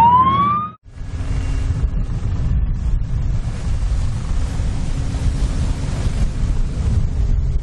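A rising, siren-like tone cuts off sharply within the first second. Then comes steady wind buffeting the microphone over a low rumble, with a faint steady hum underneath.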